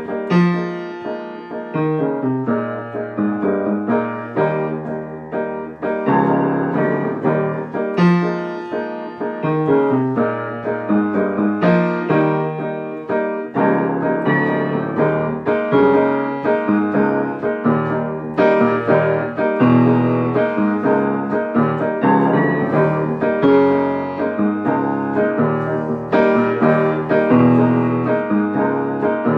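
Solo piano playing an instrumental passage after the last sung line of the song: rhythmic chords in the left hand under a right-hand melody, with no singing.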